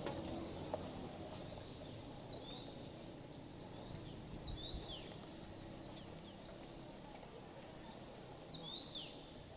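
Small birds chirping: short, sharply sweeping calls every second or two, the clearest about halfway through and near the end, over a low rumble that fades away in the first seconds.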